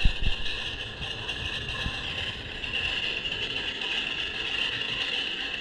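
A 383 stroker V8 in a van running steadily, played back through a phone's small speaker. There are a couple of low knocks just after the start.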